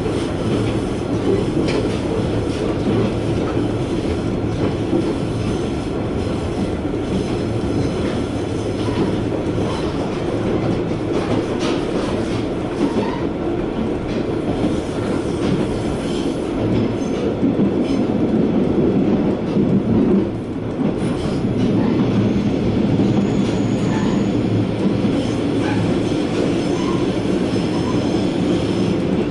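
Diesel railcar running along the line, heard from inside the cabin: a steady rumble of engine and wheels on the rails, with a few faint clicks from the track.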